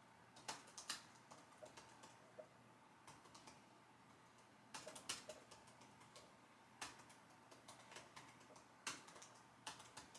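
Computer keyboard typing: faint, irregular runs of keystroke clicks separated by short pauses.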